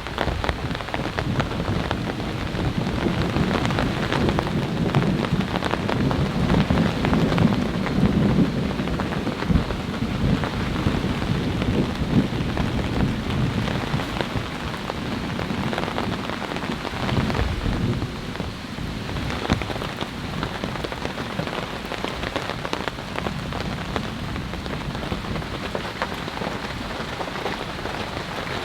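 Heavy rain falling steadily, a dense patter of drops. A low rumble of thunder swells in the first half and dies away about two-thirds of the way through.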